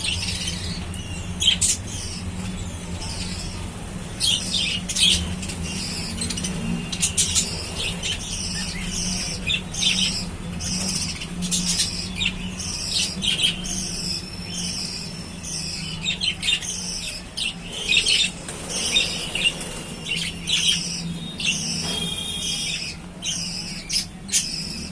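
Many small birds chirping and calling over one another in short, repeated high notes, with a steady low hum underneath.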